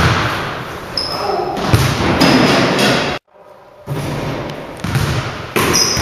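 Basketball game play on an indoor court: a ball bouncing and thudding on the hardwood floor, with short high sneaker squeaks about a second in and near the end, and voices in the background. The sound cuts out briefly a little past three seconds in.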